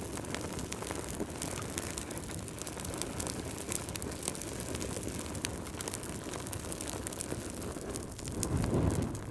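Crackling wood fire: a steady low rush of flames with many scattered sharp pops and crackles, and a louder low surge near the end.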